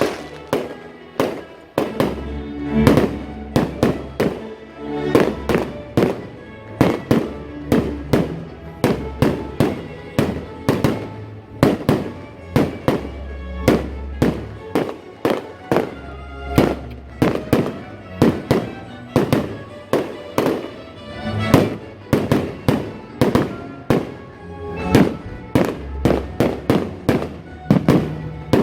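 Fireworks display: aerial shells bursting in a quick, irregular run of sharp bangs, often several a second, over music with a steady bass.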